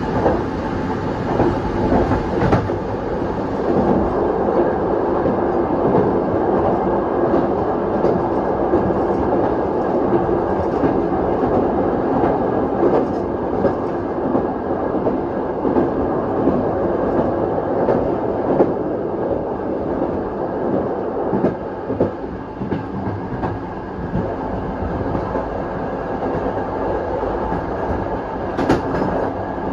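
Passenger train running on the rails and crossing a bridge, with a steady rumble and occasional clacks of the wheels.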